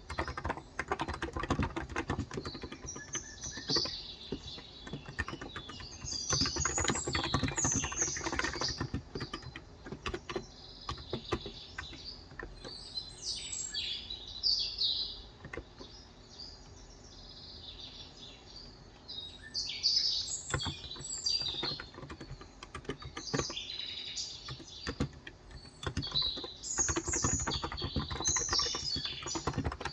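Typing on a Cox Endeavour electrostatic capacitive (non-contact, 35 g) tenkeyless keyboard: a rapid patter of keystrokes that thins out around the middle and picks up again about two-thirds of the way through. Small birds chirp and twitter in bursts over it.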